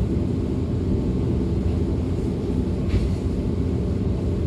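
Steady low running rumble of a DB Class 425 electric multiple unit under way, heard from on board.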